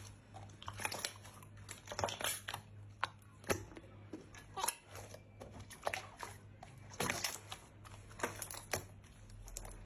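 Slime being squeezed and worked by hand, giving irregular sharp clicks, pops and crackles, several a second, over a faint steady low hum.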